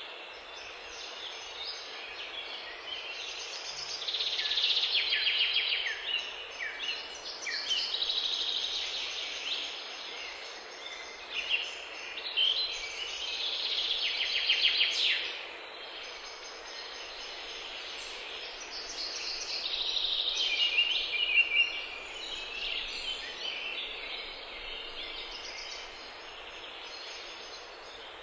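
Songbirds chirping and trilling in short repeated phrases over a steady background hiss.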